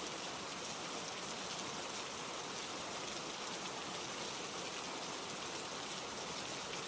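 Steady rainfall: an even, constant hiss of rain.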